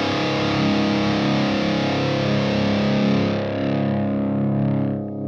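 Ernie Ball Music Man Monarchy Majesty electric guitar through a Mesa TC-100 amp's blue channel with a boost in front: a high-gain distorted chord held and left to ring. Its bright top end fades away about three and a half seconds in, leaving the lower notes sustaining.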